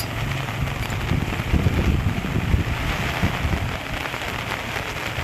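Steady rain falling, an even hiss, with a louder low rumble between about one and three seconds in.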